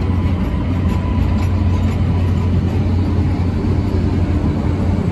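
Train passing close by: a loud, steady rumble with a faint high whine that fades out about a second and a half in.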